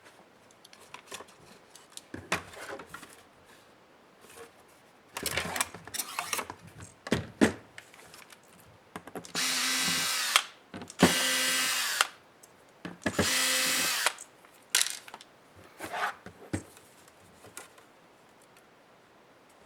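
Small electric screwdriver running in three short runs of about a second each, backing out laptop screws, with clicks and knocks of parts being handled before and after.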